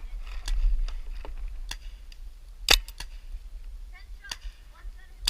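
Scattered sharp snaps and clicks at irregular intervals, with one loud crack near the end, over a low rumble.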